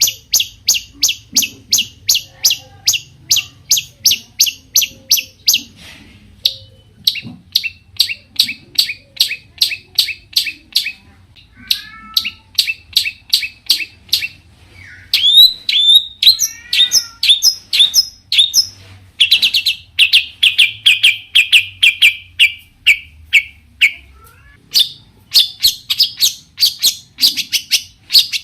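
Long-tailed shrike (cendet) singing loud, fast strings of repeated sharp, high chattering notes, about four or five a second. The runs last several seconds each, with short pauses between them and some slurred notes mixed in.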